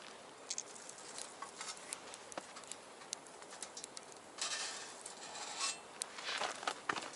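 Wood fire crackling in a small stainless box stove, with scattered sharp pops and two stretches of hiss in the second half.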